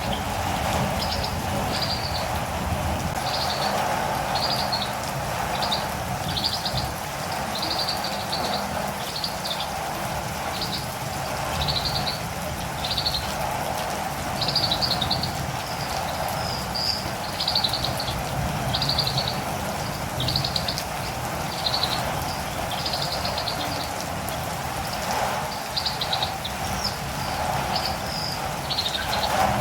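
Steady rain with a catirumbava (olive-green tanager) calling, a continual run of short high chirps at about two a second.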